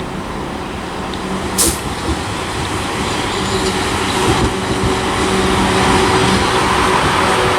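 Class 444 electric multiple unit pulling into the platform, growing louder, with a steady hum under the running noise. A short sharp hiss about one and a half seconds in.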